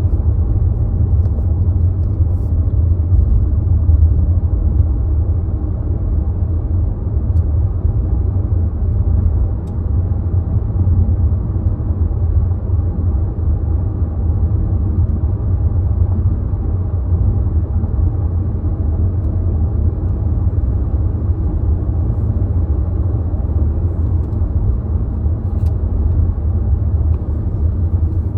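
Car engine running steadily, a low rumble with a faint even hum above it and no revving.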